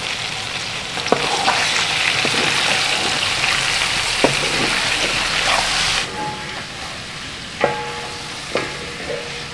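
Chicken pieces sizzling in hot ghee in a wide metal pot as they are stirred with a wooden spoon, which knocks against the pot now and then. The sizzle drops off abruptly about six seconds in.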